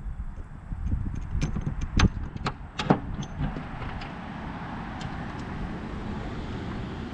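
Hand wrenches clinking against each other, a few sharp metal clinks in the first three seconds as they are sorted. About three and a half seconds in, a steady rushing noise takes over.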